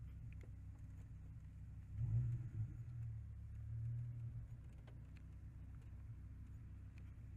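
Dodge Viper V10 engine heard from inside the cabin, running low and steady while driving slowly. About two seconds in, a short blip of throttle makes it swell louder for about two seconds before it settles back.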